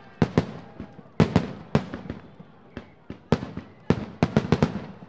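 Fireworks display: an irregular rapid series of sharp bangs from bursting shells, more than a dozen in five seconds, each trailing off briefly.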